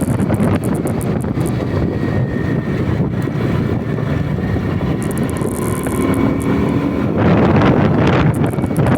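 Onboard noise of a vehicle under way on the road, with heavy wind buffeting on the microphone; a faint engine tone comes through a little past the middle, and the noise grows louder near the end.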